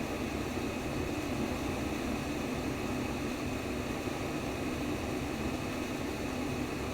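Steady white noise for baby sleep: an even, unchanging rushing hiss with a deeper rumble underneath.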